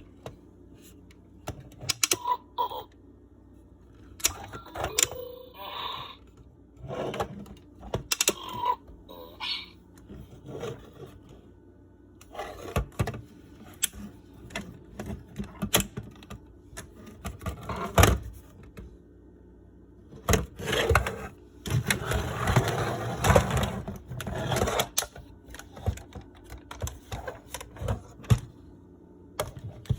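Plastic Fisher-Price Little People elephant and hippo toy being handled and worked: irregular plastic clicks, taps and knocks, with a few short tones early on and a longer hissing, rustling stretch about two thirds of the way through.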